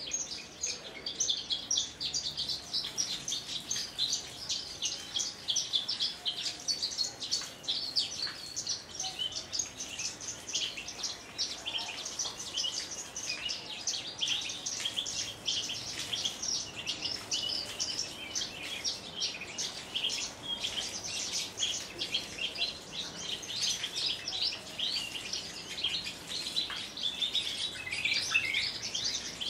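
Javan bush lark (branjangan) singing a long, unbroken run of rapid high chirps and trills.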